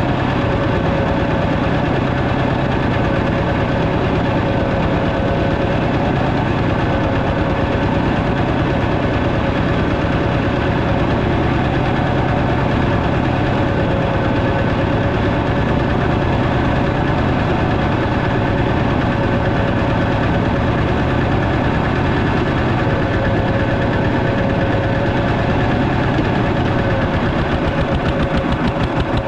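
Walking tractor's single-cylinder diesel engine running steadily, loud and close, with a rapid even pulse from its firing.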